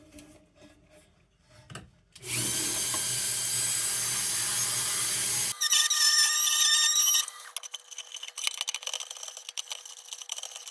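A small electric power tool starts about two seconds in and runs steadily for a few seconds. It then shifts to a louder, higher whine and stops about seven seconds in, followed by light scraping and clicking.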